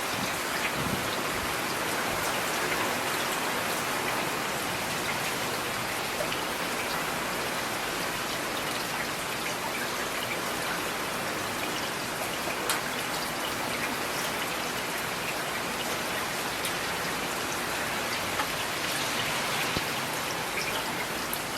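Steady rain falling, an even hiss of drops with a few sharper individual drop hits standing out now and then.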